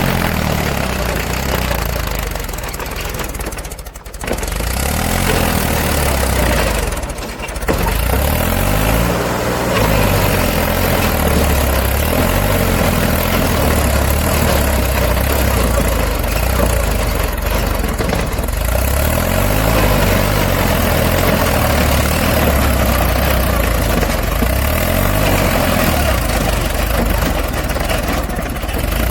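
Diesel engine of a JCB 3DX backhoe loader running steadily under work, with brief drops in level about four and seven seconds in.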